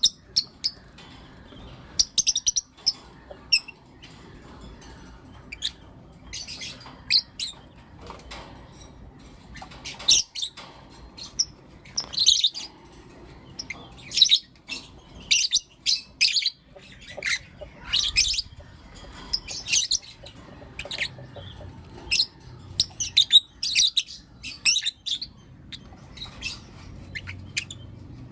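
Pet lovebirds chirping and calling: many short, sharp, high-pitched chirps in irregular bursts, some in quick runs.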